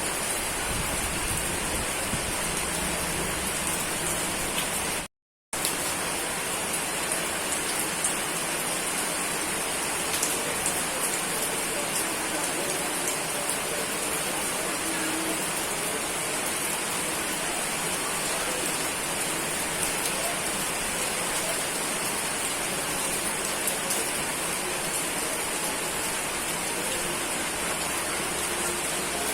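Steady rain falling, an even hiss with scattered small drop ticks. About five seconds in the sound cuts out completely for half a second, an edit splice in the recording, then resumes unchanged.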